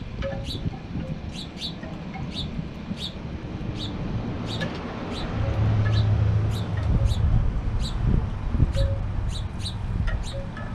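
Small bird chirping: a steady run of short, sharp, high chirps, about two a second. A low rumble swells in the middle.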